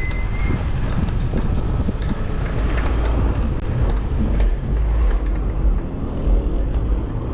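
Road traffic passing close by, heard from a moving bicycle, with a steady low rumble of wind on the microphone.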